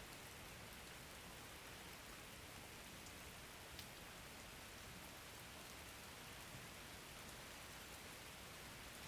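Faint, steady rain falling, with scattered drop ticks and one sharper tick about four seconds in.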